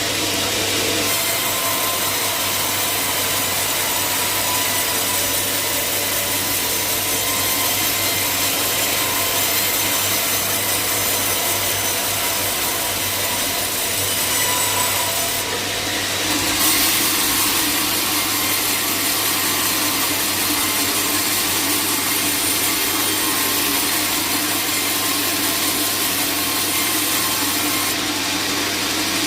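Sawmill saw cutting through a log, a continuous rasping cut over a steady low motor hum, with brief changes in the cutting noise about halfway through and near the end.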